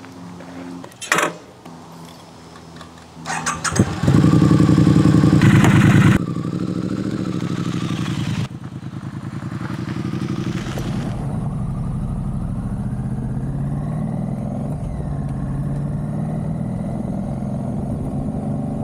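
Triumph Street Twin's parallel-twin motorcycle engine fires up about four seconds in and is revved loudly, then runs as the bike pulls away. Later it holds a steady note under way, its pitch rising and falling gently with speed.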